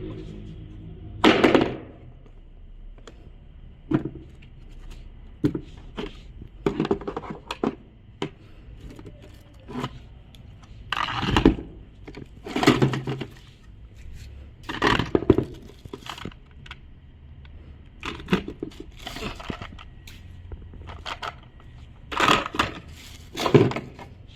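Packaging and parts of a cordless drill kit being handled: a string of short rustles, cracks and knocks, irregular and a second or two apart.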